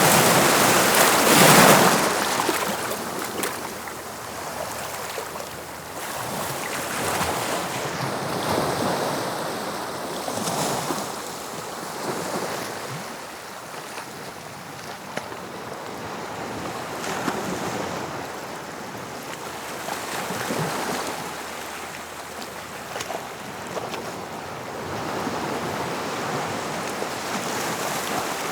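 Sea waves breaking on the shore, with one big crash in the first two seconds. Smaller waves then wash in every few seconds over a steady hiss of surf.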